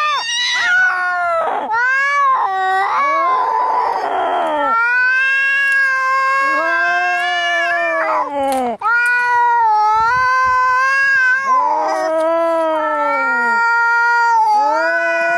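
Angry cats caterwauling in a fight: long, drawn-out yowls that rise and fall in pitch, one after another, with a harsh hiss about four seconds in.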